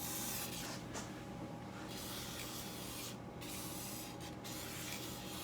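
Aerosol can of penetrating oil spraying around the carburetor intake boots, a hiss in three bursts: a long first one, then two shorter ones after brief pauses about three and four seconds in.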